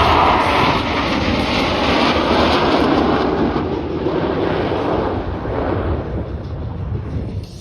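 Jet aircraft engine roar passing close, loudest at first and gradually fading as the jet moves away.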